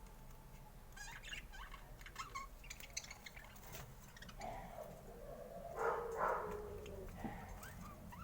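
Pet budgerigars chirping and chattering: a run of short, quick chirps, then a longer, louder call in the second half.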